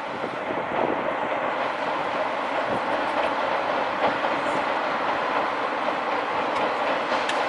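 SL Ginga steam-hauled train rolling past, its wheels clattering steadily over the rails.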